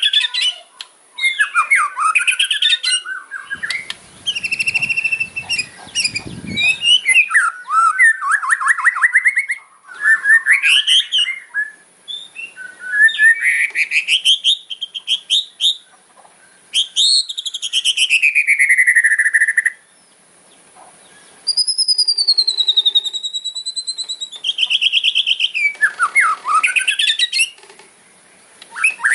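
White-rumped shama (murai batu) singing an aggressive fighter-style 'kretekan' song: phrases of fast rattling trills and buzzy churrs alternating with sweeping whistles. About two-thirds of the way through comes a long wavering whistle.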